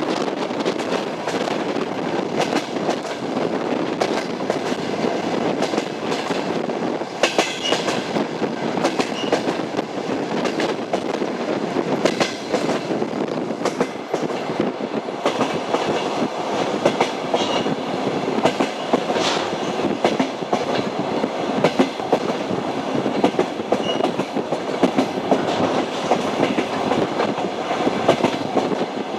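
Passenger train wheels running at speed over jointed rail track: a steady rumble with a continual clickety-clack as the wheelsets cross the rail joints.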